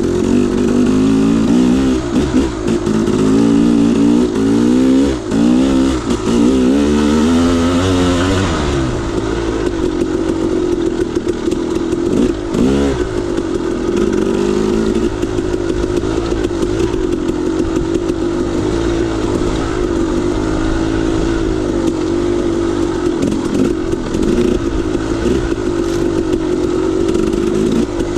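KTM 300 XC-W single-cylinder two-stroke dirt bike engine, revving up and down over the first nine seconds or so, then running at a steadier pitch with brief dips in the throttle.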